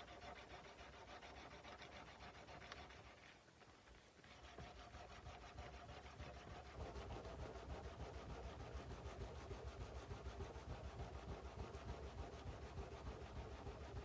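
Sandpaper rubbed by hand back and forth along a kukri's steel blade in quick, even strokes, a few a second. There is a short pause about a third of the way in, and the strokes come stronger in the second half.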